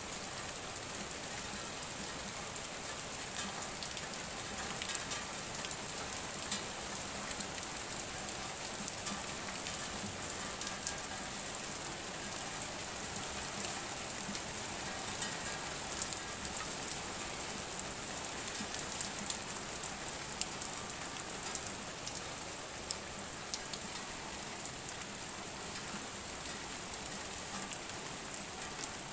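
Steady rain falling, an even hiss dotted with frequent sharp ticks of drops landing close by.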